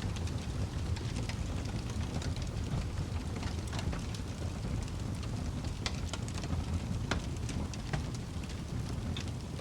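Wood fire burning in a fireplace: a steady low rumble of flames with many irregular sharp crackles and snaps from the burning wood, a few louder pops among them.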